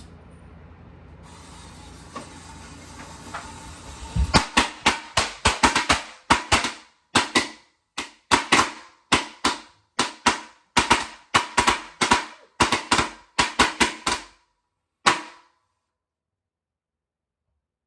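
A string of firecrackers going off: about thirty sharp bangs at an uneven two to three a second starting about four seconds in, with a last single bang after a short gap, then nothing.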